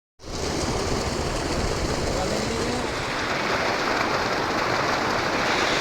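Steady rushing of water from a small river.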